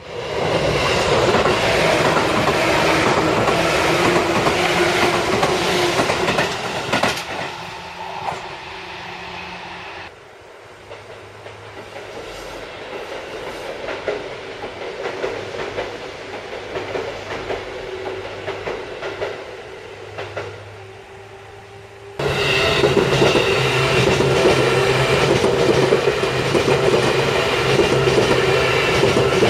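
Seibu Railway electric trains running on the track. The sound is loud for the first ten seconds, then changes abruptly to a quieter stretch with a steady low hum. About 22 seconds in it becomes loud again with a new train's running noise.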